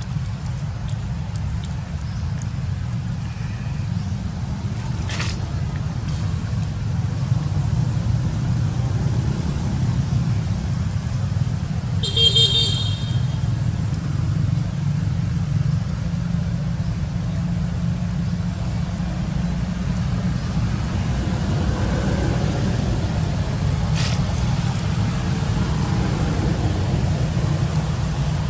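Steady low rumble of road traffic, with a brief high-pitched toot about twelve seconds in and a few faint clicks.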